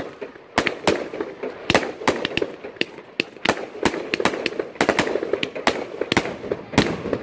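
Category F2 consumer firework module (compound cake) firing in sequence: sharp bangs of aerial shots bursting, about two or three a second at uneven spacing, over a continuous crackling hiss.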